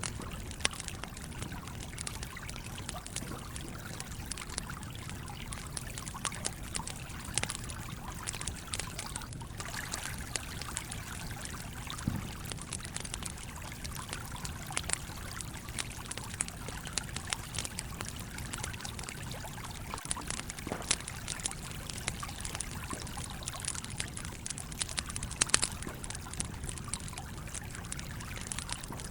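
A campfire crackling, with frequent small pops and a few sharper snaps, over the steady flow of a trickling stream.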